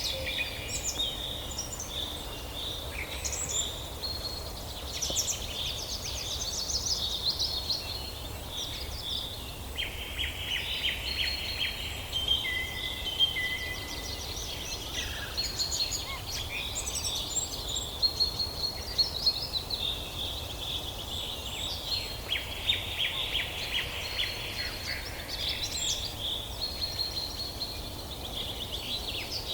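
Several songbirds singing and calling at once, with overlapping chirps, rapid trills and short whistles going on throughout, over a faint low background rumble.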